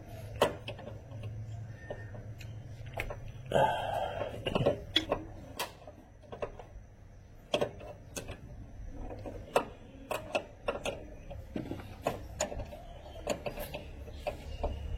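Hand tools clicking and knocking against metal while working a tight fastener off a car steering rack. There are scattered sharp clicks over a low hum, with one short louder rasp about four seconds in.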